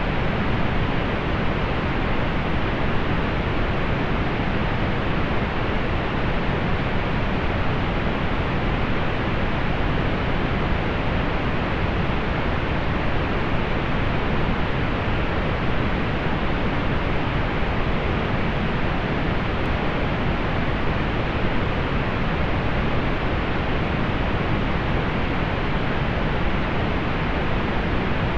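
Steady pink noise: an even hiss with its energy weighted toward the low end, fading off above the upper mids, unchanging throughout.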